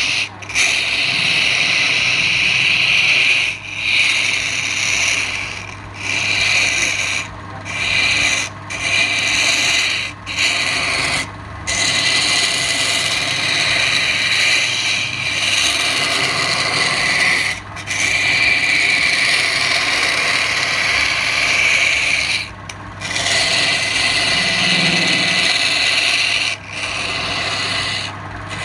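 A tool pressed against wood turning on a lathe makes a loud, steady rasping hiss. The hiss breaks off briefly every second or two as contact lifts away, over the steady hum of the lathe motor.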